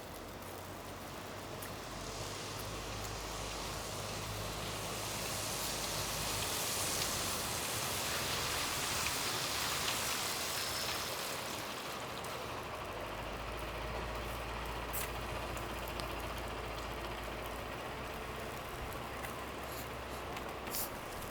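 A vehicle passing slowly along a snowy street: tyre hiss on the snow swells to a peak near the middle and fades again, over a low engine hum, with a few sharp clicks near the end.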